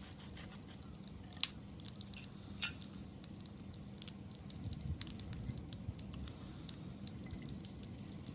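Wood campfire crackling: scattered sharp pops and snaps, the loudest about one and a half seconds in and more frequent past the middle, over a low steady flutter of burning wood.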